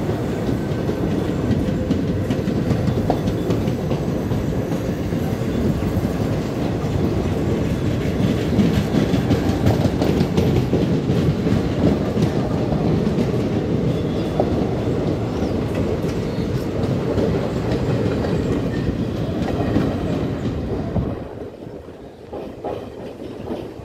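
Passenger express coaches running past close by, their wheels clattering over the rail joints in a steady heavy rumble. About 21 seconds in, the last coach passes and the sound falls away quickly.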